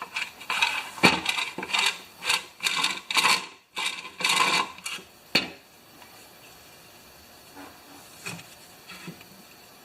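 Metal parts of a Honda lawn mower recoil starter clinking and scraping as they are handled and fitted, ending in a sharp click about five seconds in; after that only a few faint taps.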